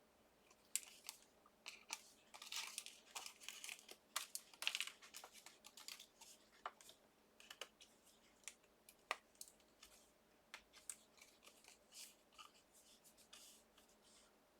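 Die-cut card stock being handled by hand, the small cut-out pieces being poked and popped out: faint scattered clicks, taps and paper crinkling, busiest about two to five seconds in.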